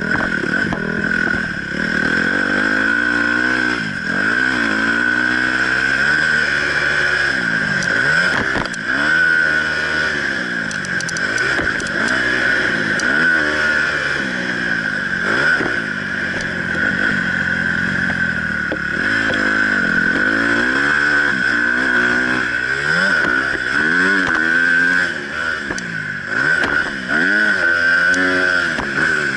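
Honda CRF250 motocross bike's single-cylinder four-stroke engine heard from on the bike, revving up and dropping off again every second or two as the throttle is worked around the track, with a steady high tone running under it.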